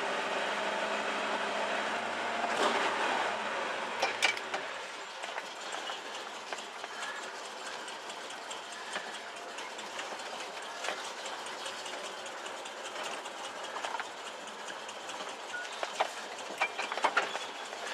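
1968 Chevrolet El Camino's 327 V8 running. For the first few seconds a steady engine hum is heard, then a steady rush of noise with scattered sharp clicks and ticks, the loudest about four seconds in and again near the end.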